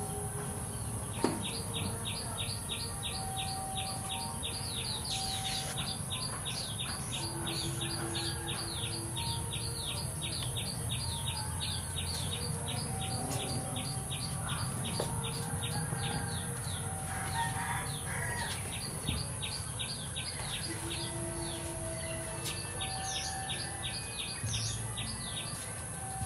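A bird calling in a long, fast series of short downward chirps, about three a second, over a steady high hiss. A single sharp click sounds about a second in.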